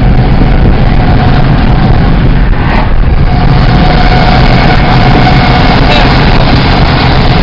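A car being driven at speed: loud, steady road and engine noise, heaviest at the low end, with a faint steady whine joining about three seconds in.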